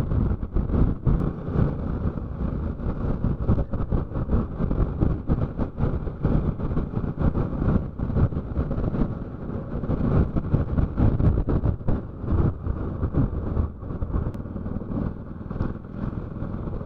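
Motorcycle being ridden at steady road speed, its engine running under a constant, uneven rumble of riding noise.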